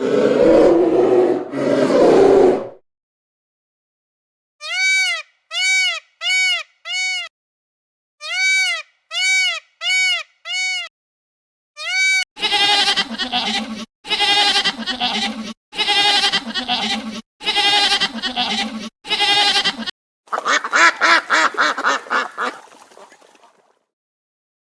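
A string of farm animal calls. A low call fades out in the first few seconds. Then come short pitched calls, each rising and falling, in two groups of four and then a single one. Last comes a run of six longer, harsher calls about a second and a half apart, and a final call that fades out.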